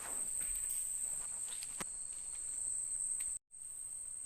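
Night insects in the rainforest trilling in one steady high-pitched note, with a few light taps and rustles. The sound cuts out for a split second about three and a half seconds in.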